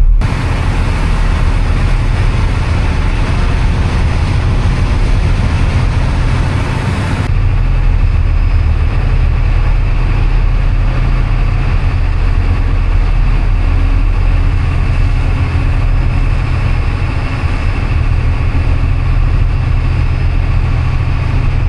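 The boat's engines running steadily underway, a low droning hum heard from inside the wheelhouse. The higher hiss drops away about seven seconds in while the low hum carries on.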